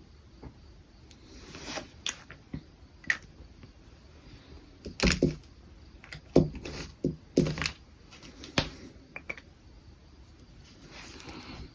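Brush pen strokes on paper, soft and scratchy, broken by a run of sharp taps and knocks midway through.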